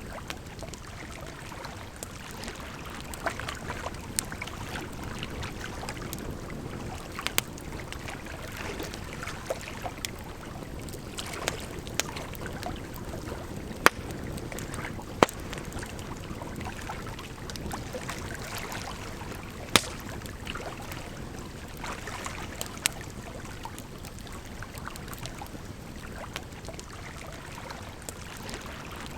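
Campfire crackling, with irregular sharp pops and a few louder snaps around the middle, over a steady rush of running water.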